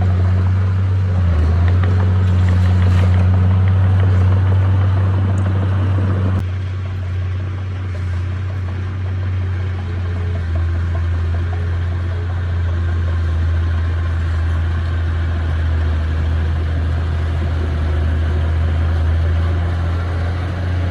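Heavy diesel engine of earthmoving machinery running steadily with a deep, even hum. About six seconds in, the rougher upper part of the sound drops away abruptly, leaving mostly the low drone.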